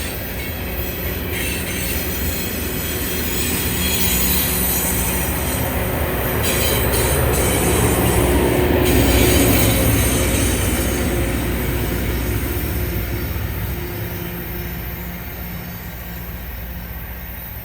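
Freight train rolling past on the rails, its wheel-and-rail noise swelling to a peak about halfway through and then fading as it moves on.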